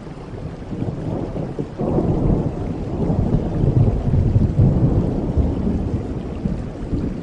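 Rolling thunder over steady rain: a deep rumble swells about two seconds in, is loudest mid-way and eases toward the end.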